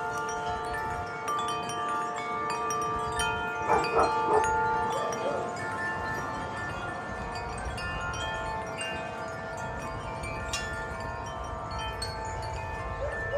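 Wind chimes ringing in gusty wind: many overlapping long tones struck again and again, with a louder flurry of strikes about four seconds in. A low rush of wind runs underneath.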